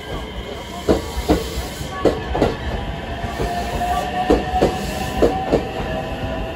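Electric train rolling slowly past the platform, its wheels clacking over rail joints in double clacks, one pair as each bogie crosses, over a steady rumble. A faint whine rises slightly near the middle.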